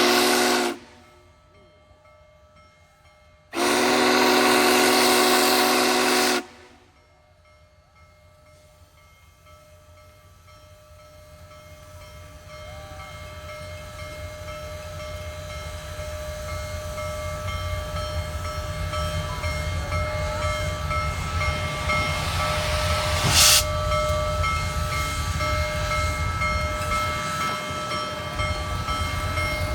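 Union Pacific Big Boy No. 4014's steam whistle sounding a chord, a blast cut off just under a second in, then a second blast of about three seconds. The locomotive then gets under way with a low rumble that builds steadily louder, and a single sharp bang near the end.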